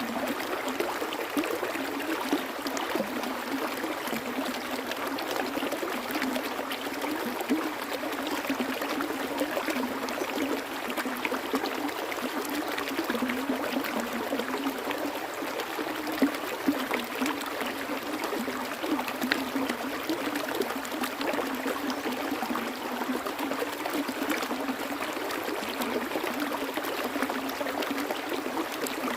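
Stream water flowing and trickling steadily, with a constant splashing and gurgling.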